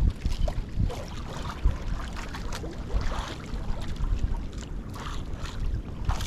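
Strong wind buffeting the microphone on a small boat at sea, a constant low rumble with irregular gusts, over choppy water splashing.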